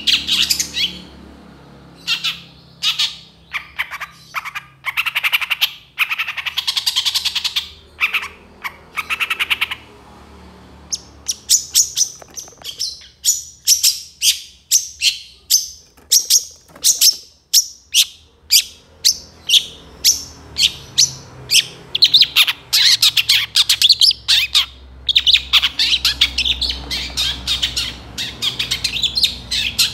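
Long-tailed shrike (cendet) singing: fast runs of short, sharp, high notes broken by brief pauses, with harsh squawking notes among them.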